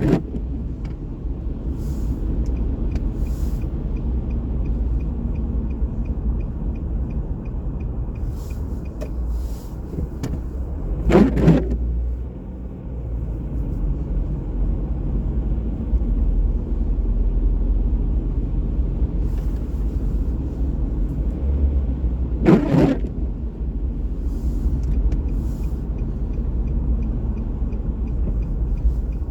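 Steady low rumble of city street traffic, with two brief louder passes about 11 and 23 seconds in and a faint, fast, even ticking at times.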